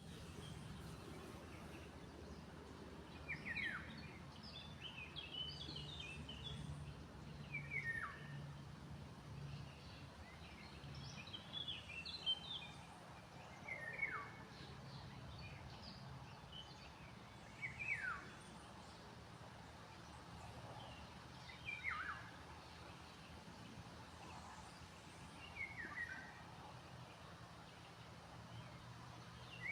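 Small birds calling: a short downward-sweeping call repeats about every four seconds, with scattered higher chirps in between, over a steady low hum.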